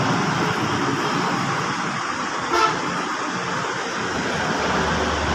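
Steady road traffic noise, with a brief vehicle horn toot about two and a half seconds in.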